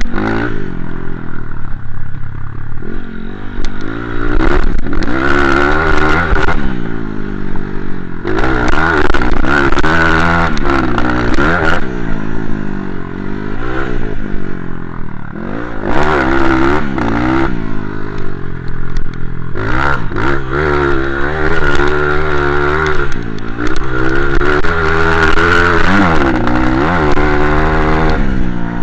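Motocross bike engine revving hard and easing off again and again as it is ridden around the track. The pitch climbs under throttle, then drops on shifts and into corners, about a dozen times.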